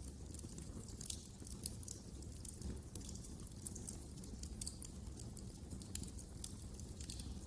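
Wood fire crackling: frequent small snaps and pops, a few louder, over a low steady rumble of the flames.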